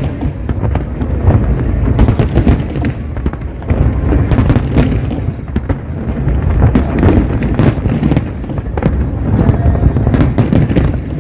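Fireworks display: a dense, continuous run of booms and sharp cracks over a low rumble.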